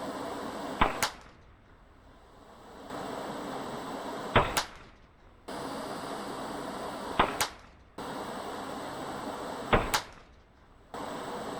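Unsuppressed Savage Mark II .22 LR rifle firing four shots, spaced about three seconds apart. Each sharp crack is closely followed by a second report.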